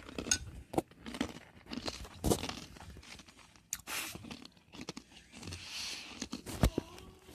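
Eating a bowl of yogurt mixed with crunchy Oreo O's cereal: a spoon knocks and scrapes in the bowl, with crunchy chewing. There are several separate sharp clicks.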